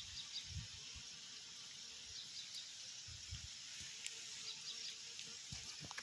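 Faint outdoor nature ambience: a steady high hiss of running water, with a few short, high bird chirps and some soft low thumps.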